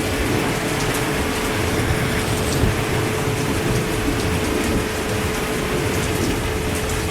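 Steady heavy rain falling, with scattered drop ticks and a faint steady hum underneath.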